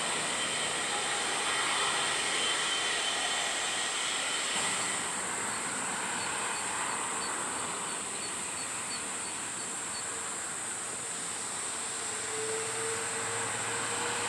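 Airbus A330-300's Rolls-Royce Trent 700 jet engines at takeoff power: a steady, continuous rush of jet noise.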